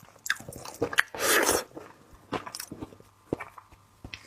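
Close-up eating sounds from raw seafood being bitten and chewed: wet smacking with many small crackles and clicks, and one louder burst about a second in.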